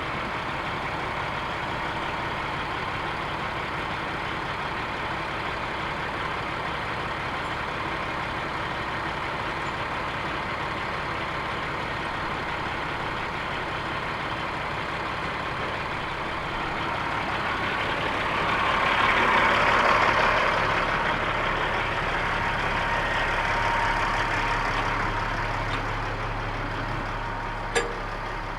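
Heavy diesel engine running steadily, swelling louder for a few seconds past the middle, with one sharp click near the end.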